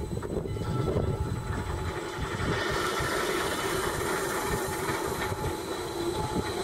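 Gornergratbahn electric rack-railway train running, a steady rumble with a faint whine. About halfway in, a hiss joins.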